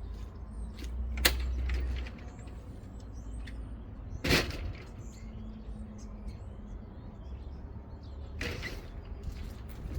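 A few scattered knocks and clatters, the loudest about four seconds in, over a low rumble, with birds chirping faintly.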